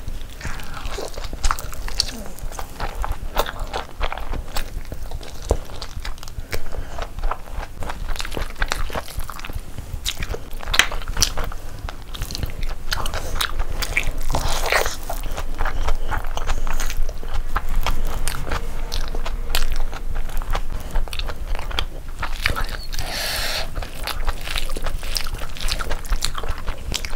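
Close-miked chewing of a big mouthful of chicken biryani: wet smacking and squelching with crisp clicks, many a second.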